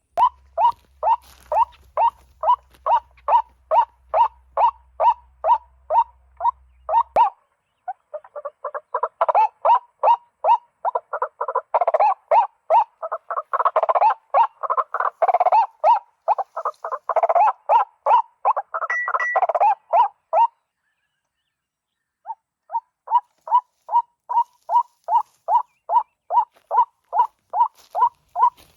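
White-breasted waterhen (ruak-ruak) calls: a loud croaking call repeated about three times a second, thickening in the middle into several overlapping callers. The calling cuts off abruptly twice and resumes.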